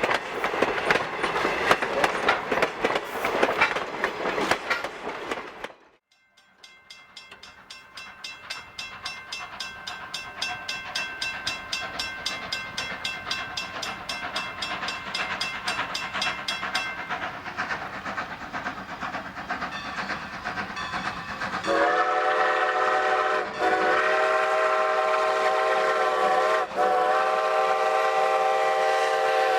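Steam train passing close with rattling wheels on the rail, then, after a cut, a fast even beat of the approaching train growing louder. From about two-thirds through, locomotive #90's steam whistle blows a long chord of several notes, broken twice briefly.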